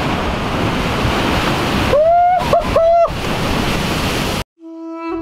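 Steady rushing noise, with a person's voice calling out a drawn-out high call in three parts about two seconds in. The noise cuts off suddenly near the end and music begins.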